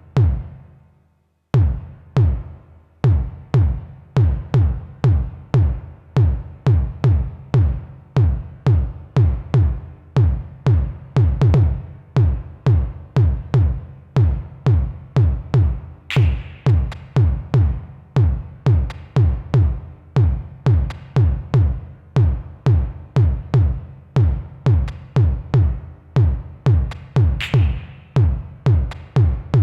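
Eurorack synthesizer pattern from a Modbap Osiris wavetable oscillator: short, punchy low notes with a fast downward pitch sweep at each attack, repeating in an even pulse of a couple per second after a brief gap near the start. A couple of brighter, hissy accents land over the pattern.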